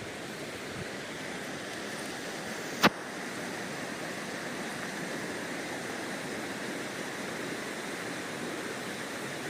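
Steady rush of falling and flowing water from a waterfall and its stream. A single sharp click cuts through about three seconds in.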